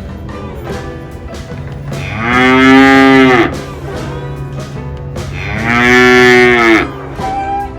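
A cow mooing twice, two long moos of about a second and a half each, a few seconds apart.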